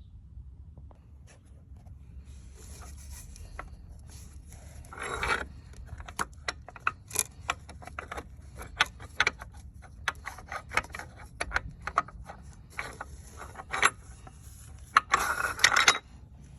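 Irregular metallic clinks, taps and scrapes of tools and engine parts being handled, with a louder scraping stretch about five seconds in and another near the end.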